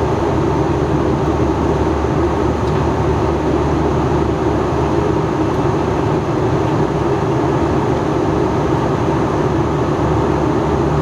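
Steady in-flight cabin noise of an Airbus A321 airliner: engine drone and rushing airflow with an even hum, unchanging throughout.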